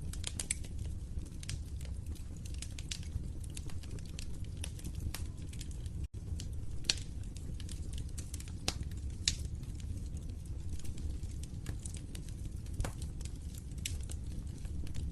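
Wood fire in a fireplace crackling, with irregular sharp pops over a steady low rumble of the flames. The sound drops out for a split second about six seconds in.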